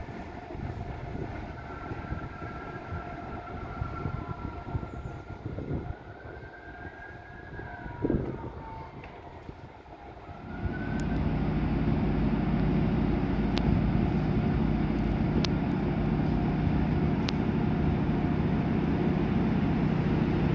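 A passenger train pulling out and fading away, its wheels squealing in a high, wavering tone, with a single thump about eight seconds in. About ten seconds in, a louder, steady engine drone sets in and holds, with a few sharp ticks over it.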